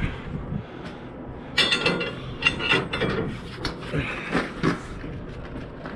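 Steel tie-down chain clinking and rattling as it is worked around the rub rail and stake pocket of a flatbed trailer: irregular metal clanks, several ringing briefly, clustered in the middle of the stretch.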